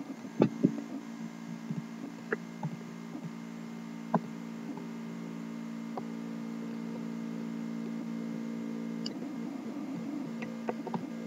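A steady electrical-sounding hum with a dozen scattered sharp clicks, most of them in the first half.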